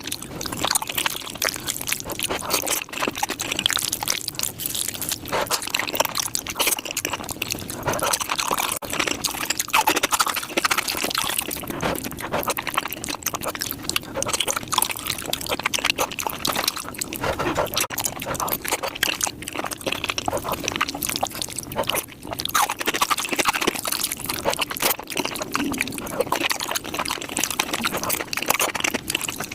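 Close-miked eating sounds sped up to five times speed: a dense, unbroken stream of rapid wet chewing and smacking mouth noises.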